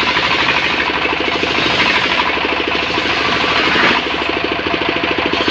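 Engine-driven portable sawmill running, its engine beating rapidly and evenly under a steady hiss.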